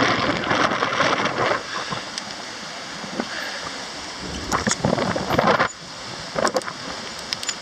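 Strong gusty wind buffeting the microphone, with loud rough blasts near the start and again about four and a half to six seconds in.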